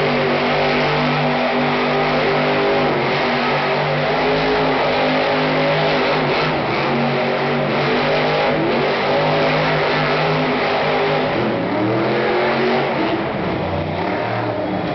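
Monster truck engine held at high revs during a burnout, the engine note dipping and climbing again several times over a loud hiss.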